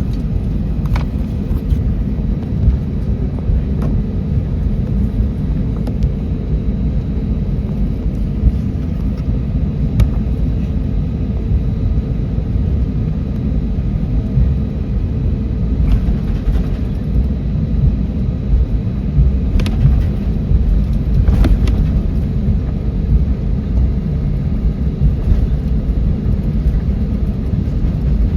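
Steady low rumble inside a Boeing 737 cabin as it taxis, the engines at idle thrust and the wheels rolling on the taxiway, with a few faint clicks now and then.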